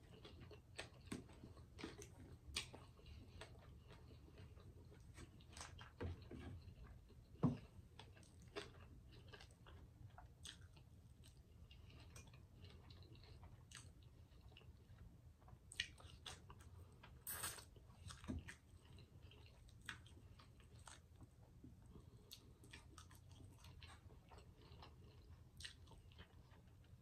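Faint close-miked eating sounds: a person chewing and biting food eaten by hand, with scattered wet mouth clicks and smacks. The loudest smack comes about seven seconds in.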